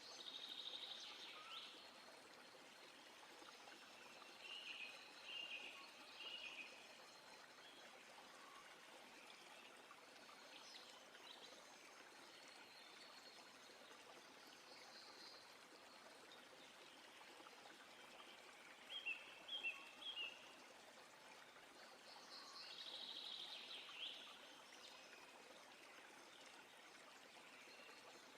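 Faint, steady rush of flowing stream water, with birds calling now and then over it. The loudest moment is a quick run of short, sharp chirps about two-thirds of the way in.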